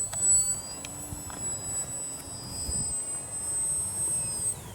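Small electric RC plane's brushless motor and propeller whining in flight, a thin high-pitched tone, with wind noise beneath it.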